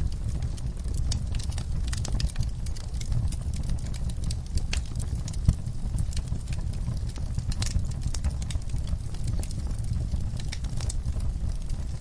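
Wood fire burning in a fireplace: frequent small crackles and pops over a low, steady rumble of the flames, with one sharper pop about five and a half seconds in.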